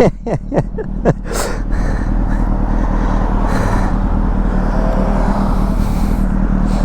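2006 Honda CBR600RR's inline-four with a Yoshimura exhaust, ridden through traffic under wind noise on the microphone. It shifts briefly in pitch in the first second or so, then runs steadily at a constant pace.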